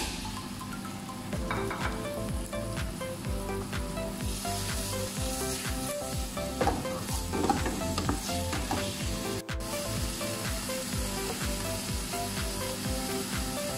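Sliced chicken and onions sizzling in hot oil in a frying pan, stirred with a spatula that scrapes and knocks on the pan now and then. The sizzle grows stronger about four seconds in.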